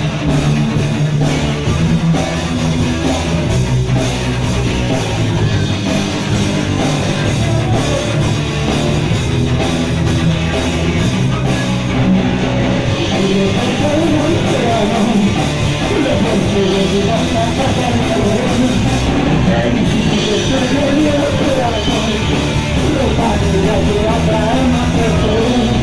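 Punk rock band playing a song live, with electric guitar and a drum kit at full volume.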